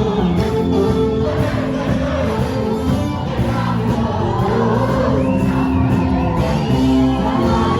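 Ethiopian gospel song (mezmur) with singing over instruments and crowd voices joining in.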